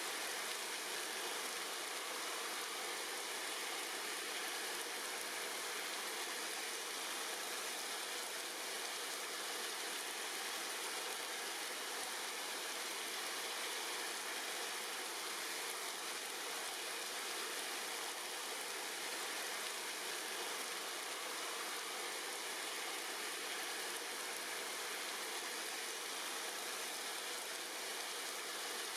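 Steady rain falling on tree leaves: an even, unbroken hiss with little low end.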